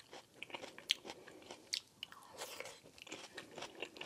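Close-miked chewing of a seasoned roasted onion, with irregular soft crunches and clicks.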